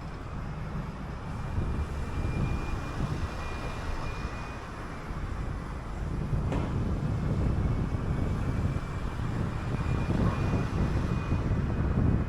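City bus running on the road, its engine and road rumble heard from on board, with a faint steady high whine. It grows louder from about six seconds in, and there is a single sharp knock about six and a half seconds in.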